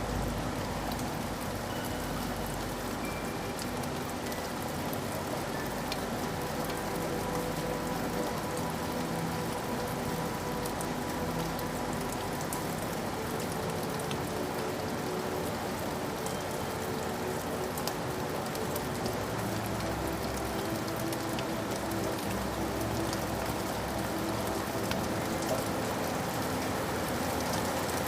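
Steady rain falling, with scattered drops ticking through it and a faint steady hum beneath.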